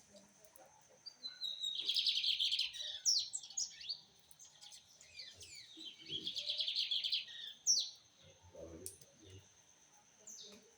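A Sporophila seedeater singing: two fast trilled phrases, with sharp gliding notes between and after them.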